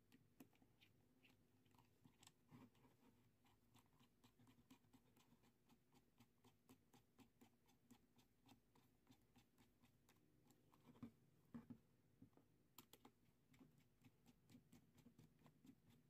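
Faint, quick, irregular clicks and ticks, several a second, with a louder group about eleven seconds in.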